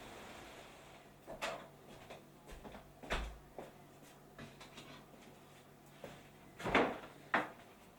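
Scattered knocks and clunks of objects being handled, a few light ones and two or three louder ones near the end, like drawers, doors or utensils being moved.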